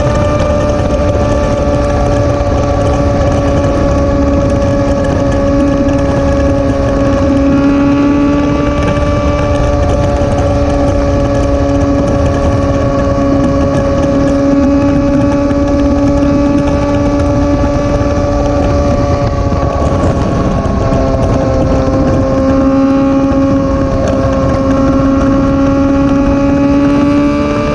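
Motorcycle engine at a steady cruise with a constant engine note that drops a little about twenty seconds in and climbs again near the end. Dense low wind rumble runs underneath.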